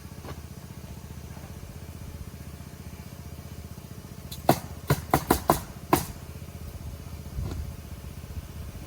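An engine idles steadily. About halfway through, a quick run of about six sharp knocks comes within a second and a half, and a fainter one follows a little later.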